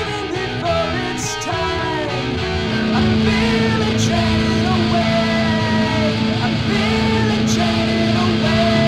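Emo-hardcore band playing with electric guitars and drums, a voice singing over them; the band comes in fuller and louder about two and a half seconds in.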